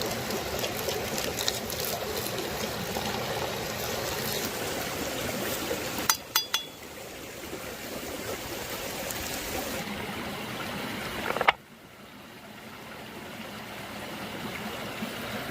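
Running water of a stream, a steady rushing and trickling, broken by clicks about six seconds in and by an abrupt cut near eleven and a half seconds, after which the water is quieter and slowly swells again.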